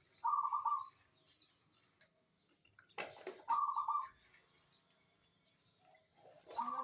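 Zebra dove (perkutut) calling actively: three short runs of rapid pulsed coos, about three seconds apart, the last one running on past the end. A sharp sound comes just before the second run, and faint high chirps sound between the runs.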